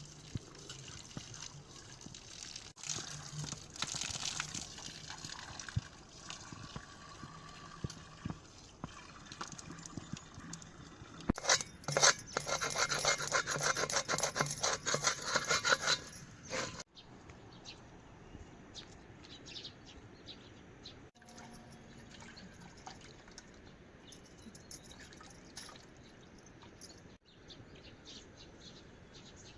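Water running and splashing, loudest for about five seconds midway, then switching suddenly to a quieter steady wash with light ticks.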